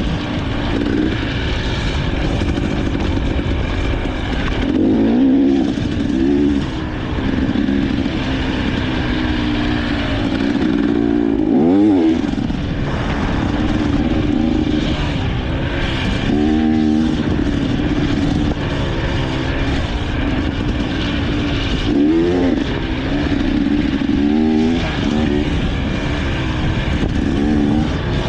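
Dirt bike engine running hard, its pitch rising and falling again and again as the throttle is opened and shut, with several sharp revs.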